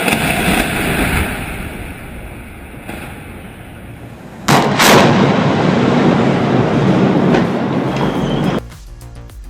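Explosive demolition blasts. A sudden loud bang trails into a long rumble, then a second, louder bang comes about four and a half seconds in. Its rumble cuts off suddenly near the end.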